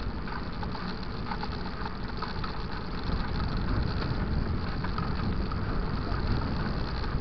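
Steady low rumble with a hiss on top, from wind on the microphone and tyres rolling while riding a mountain bike.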